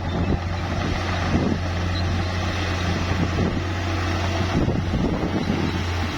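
Heavy bulldozer's diesel engine running under load with a steady low drone, with scattered irregular knocks and rattles over it.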